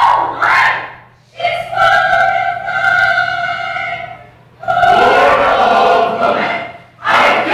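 A group of voices in unison, as in a speech choir performance. A short called-out phrase is followed by two long, drawn-out sung or chanted notes, and a new phrase begins near the end.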